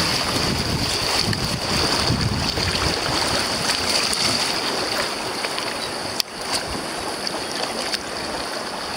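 Steady rush of river water through rapids around a kayak, with wind on the microphone. A single sharp knock about six seconds in, after which the rush is a little quieter.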